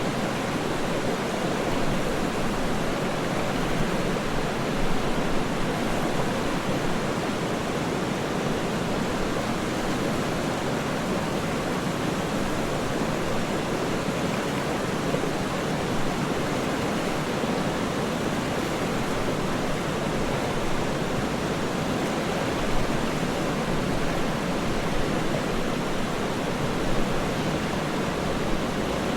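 Waterfall's steady, even rushing of falling water, deep and unbroken, with no separate splashes standing out.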